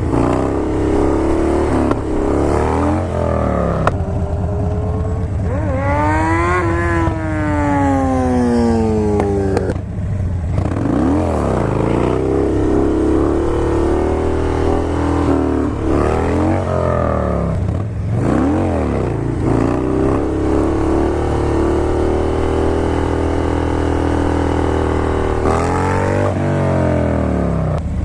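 Motorcycle engines while riding: a Harley-Davidson Dyna Low Rider's V-twin revving up and falling back again and again as it accelerates and shifts. About six seconds in, an engine's pitch climbs sharply, then falls away over several seconds.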